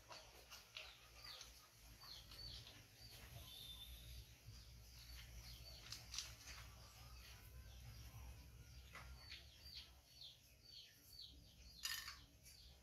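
Faint bird chirps in the background: runs of short, high, downward-sliding chirps, several a second, over a low steady hum, with a brief rustle near the end.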